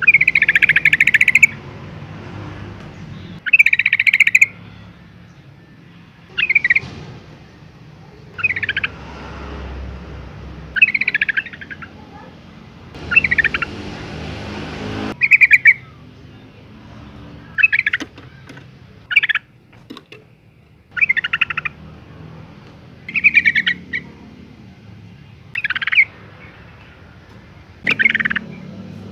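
Female yellow-vented bulbul giving short, loud, chattering call phrases, one every two to three seconds, a call used to provoke males into answering.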